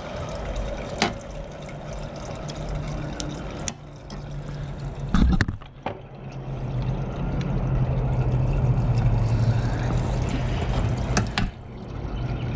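Used engine oil trickling steadily from a Kawasaki FR730V's drain nipple into a drain pan, over a steady low hum. A few sharp clicks and knocks of parts being handled come through at intervals.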